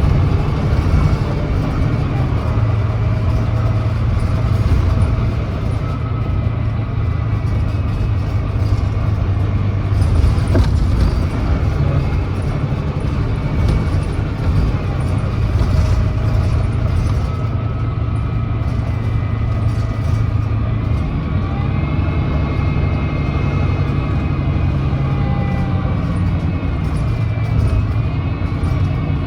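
Volvo B9TL double-decker's 9.3-litre Volvo D9B diesel engine and ZF Ecolife automatic gearbox running steadily as the bus drives. The bus has an exhaust leak. A high whine rises about two-thirds of the way through and falls away near the end.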